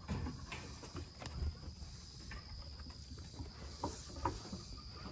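Insects chirring steadily in the background as one high, even note, with a few scattered light clicks and low handling rumble close by.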